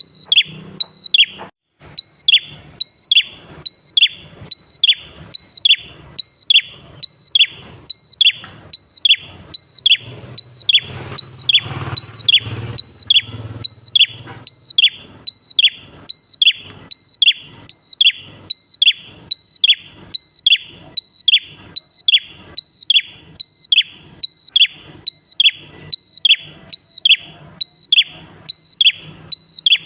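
A prenjak klawu singing a fast string of identical calls, about one and a half per second, each a short high note that drops in a quick downward slur. There is a brief pause near the start, then the repetition runs on steadily.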